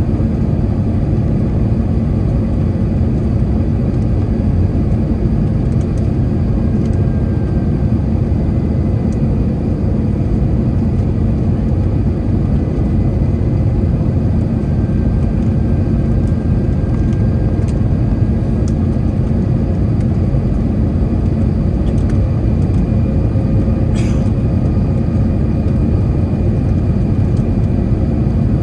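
Steady cabin rumble of an Airbus A321 airliner: engine and air noise heard from inside the cabin, with a faint whine and one short click near the end.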